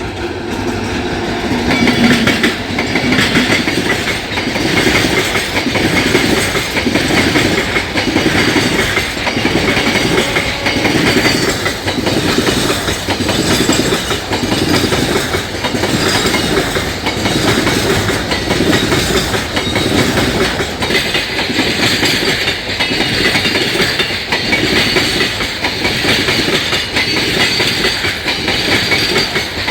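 An express train of LHB coaches passing at speed close to the track, the wheels clattering over rail joints in a steady rhythm about once a second.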